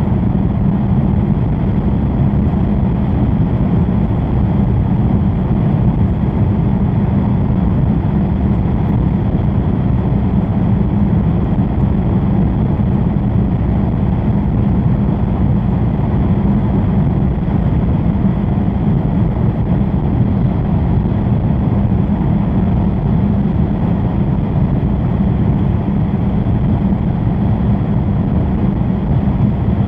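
Steady low rumble of a Shinkansen bullet train running at speed through a tunnel, heard inside the passenger cabin.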